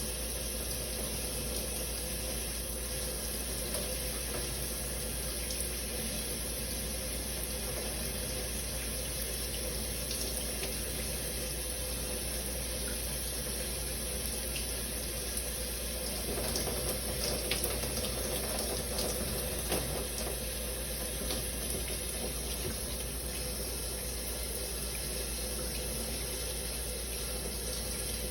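Shower water running steadily, the spray falling in an even rush, briefly louder and more uneven for a few seconds a little past the middle.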